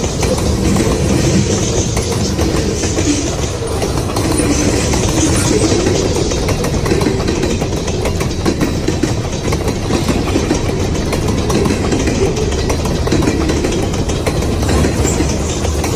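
Freight train cars rolling past at close range: a loud, steady rumble and clatter of steel wheels on the rails.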